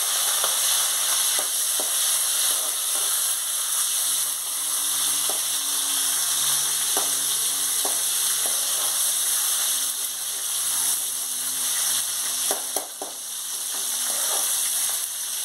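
Tomato pieces and curry leaves sizzling steadily in hot oil in an aluminium kadai, stirred with a perforated steel skimmer spoon that clicks against the pan now and then.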